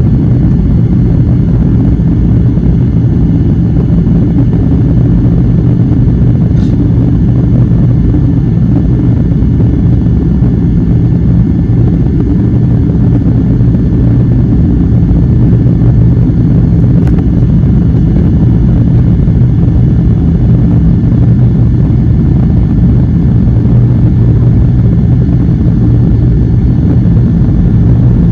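Airliner cabin noise heard from a window seat: a steady low rumble and drone of the engines and airflow, with no change in level.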